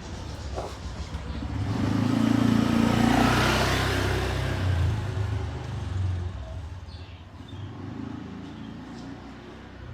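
A motor vehicle passing by, its engine hum and road noise building to the loudest point about three seconds in, then fading away.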